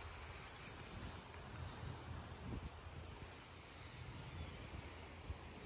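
Steady, high-pitched chirring of insects, unbroken throughout.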